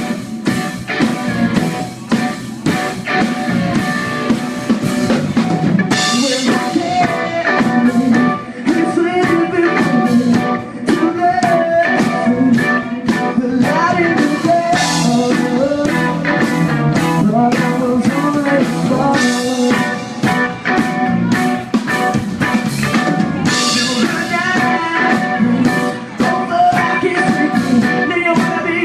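Live rock band playing a song: drum kit keeping a steady beat under electric guitars and a wavering lead line, with cymbal crashes about 6, 15 and 23 seconds in.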